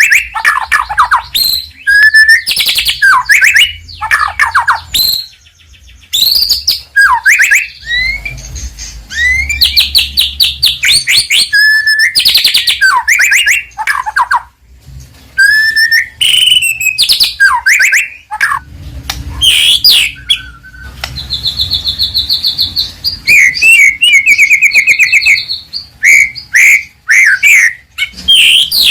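White-rumped shama singing loudly and continuously: varied phrases of whistles that glide up and down, mixed with fast chattering trills and quick runs of repeated notes, broken by short pauses between phrases.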